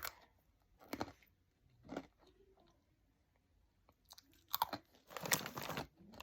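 Crisp hard pretzels being bitten and chewed with the mouth near the microphone: single crunches about a second apart, a pause, then a quicker run of crunches near the end.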